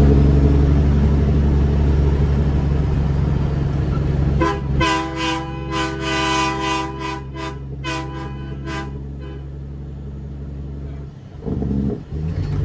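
Train horn mounted on a Kenworth W900B dump truck, sounded in a quick series of short toots for several seconds starting about four seconds in, over the steady low drone of the truck's CAT C13 diesel.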